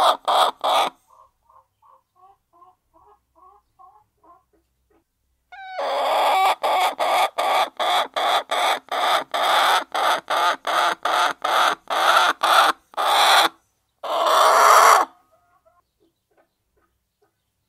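Hen cackling: a loud run of rapid, evenly spaced clucks at about three a second, ending in one long drawn-out call. A quieter stretch of soft, small clucks comes between the two loud runs.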